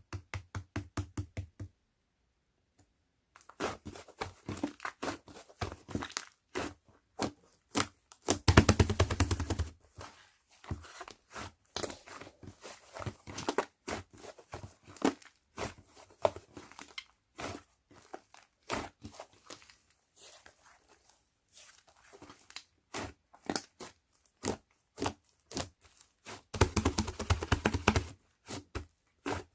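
Slime being squeezed and poked by hand: fast runs of sticky pops and clicks, with two dense, louder bursts of rapid popping about eight seconds in and near the end.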